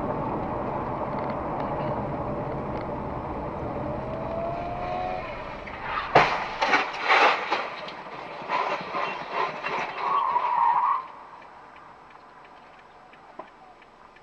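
A car is driving with steady road noise, then a sharp crash impact about six seconds in, followed by several seconds of bangs and crunches from the collision. It quietens after about eleven seconds.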